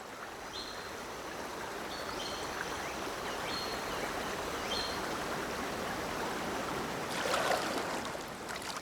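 Forest stream flowing with a steady rush of water, with a few short faint high chirps over it.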